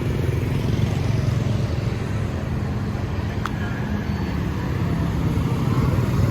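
Steady road traffic: a continuous low rumble of passing vehicles, with a faint engine hum and a single short click about three and a half seconds in.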